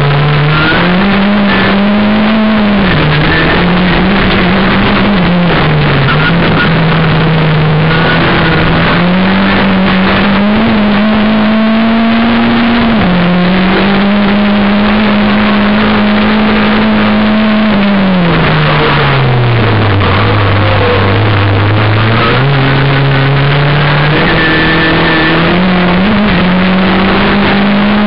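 VW Golf turbo rallycross car's engine heard from inside the cockpit at race pace: the engine revs climb and step down through gear changes, hold high for several seconds past the middle, drop low for a slower stretch about twenty seconds in, then pull up again. A loud rough rush of road and cabin noise runs under it.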